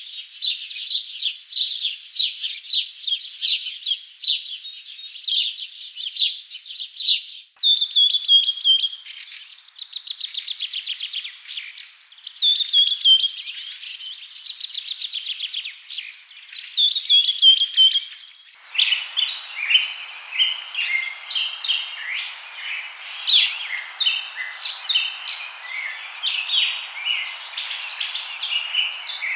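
Songbirds chirping and singing in quick runs of high notes and short trills. The recording changes abruptly twice, and in the last part the chirping sits over a steady hiss of background noise.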